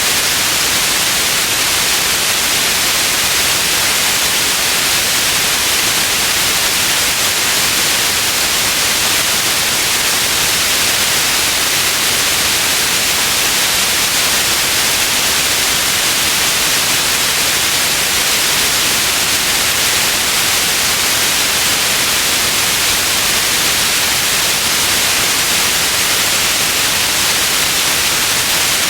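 Steady synthetic white noise: an even, unchanging hiss, brightest in the upper range.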